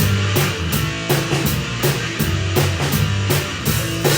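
Rock music with a fast, steady drum beat, a low bass line and guitar.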